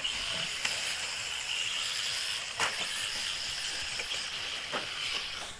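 1/10-scale front-wheel-drive RC rally cars racing on dirt: a steady high-pitched whine with gravel hiss and a few sharp clicks, the loudest about halfway through.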